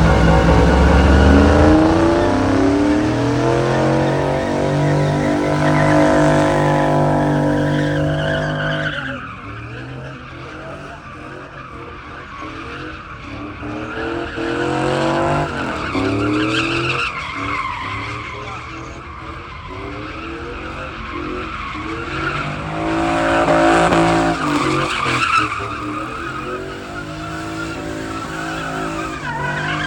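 Car engine revving hard with tires squealing and skidding. The revs fall away about nine seconds in and climb again later.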